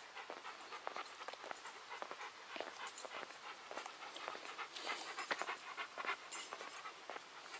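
Dog panting, with scattered short clicks and scuffs.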